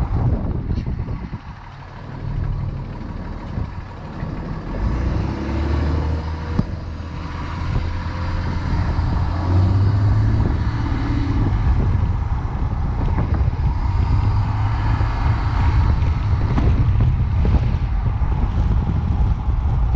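5.9-litre Cummins turbo diesel engine running with a low, grumbly sound. It dips briefly about a second and a half in, then runs louder and fuller from about five seconds on.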